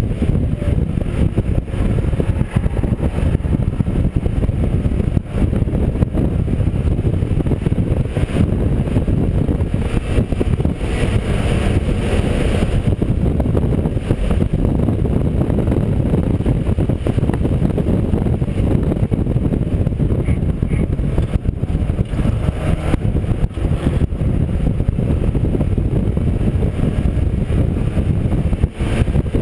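Mazda MX-5 race car's engine running at racing speed, heard onboard, loud and continuous.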